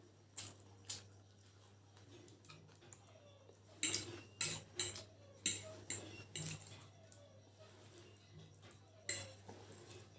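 Eating utensils clinking and scraping against a plate of chicken chowmein in short, sharp knocks: two in the first second, a quick run of about five between four and six seconds in, and one more near the end.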